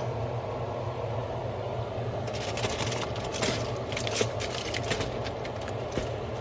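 Hard snow crab shells clicking and scraping together as the legs are handled. The clicking comes in a cluster from about two seconds in until past the middle, over a steady low rumble.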